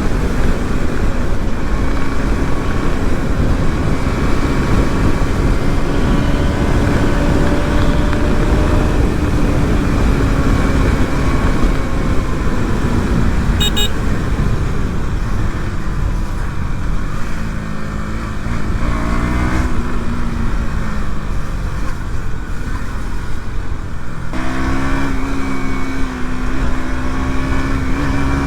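KTM Duke 200 single-cylinder engine on its stock exhaust, ridden hard at speed with heavy wind rush on the helmet mic. The engine note holds high, falls and wavers about two-thirds of the way through as the rider eases off, then climbs again near the end.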